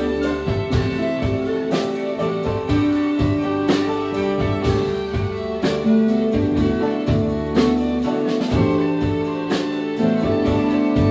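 Live band music: a tune of held melody notes over a steady beat of drum strokes.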